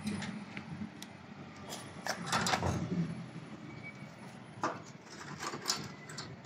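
Clicks, knocks and rattles of a car's fuel pump assembly being handled and fitted into place, with a busier run of knocking about two seconds in and a couple of sharp single knocks later.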